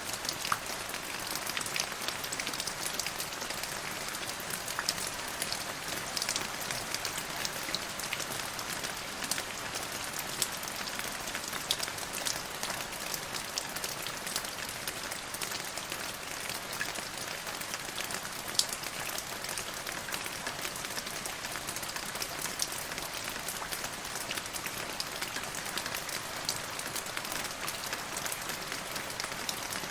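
Steady rain falling, an even hiss with many single drop hits ticking out sharply here and there.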